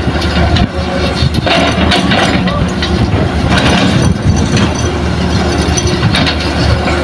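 Heavy diesel engine of earthmoving machinery (a Hitachi excavator or a dump truck) running steadily under work.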